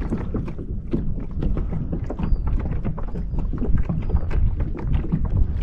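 Wind buffeting the microphone while small waves slap and knock against a kayak's hull, with a faint short high chirp repeating about once a second.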